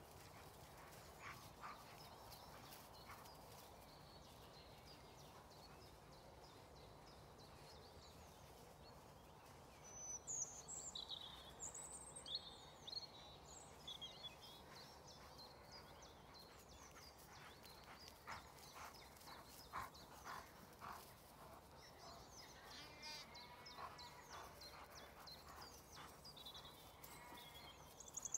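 Near silence under a faint steady background hiss, with short high bird chirps about ten seconds in and again near the end, and a few faint rustles in between.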